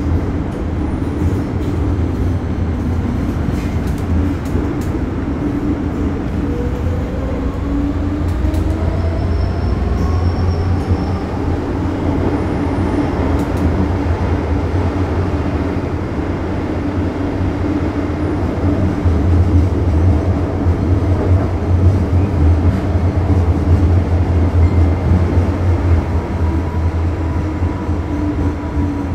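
A train running: a steady low rumble, with a whine that rises in pitch between about four and twelve seconds in.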